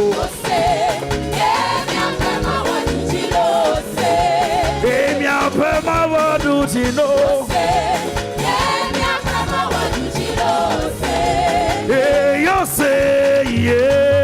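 Upbeat gospel praise music: singing with wavering, vibrato-laden melody lines over a full band accompaniment.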